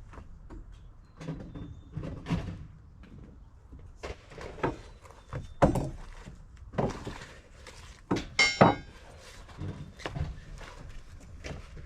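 A series of irregular knocks and thuds, with a brief high squeak about eight and a half seconds in.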